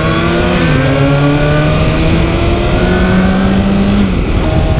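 Kawasaki Ninja sport bike's engine under acceleration, with wind rush on the microphone. An upshift about half a second in drops the pitch, the note climbs slowly again, and it drops once more about four seconds in.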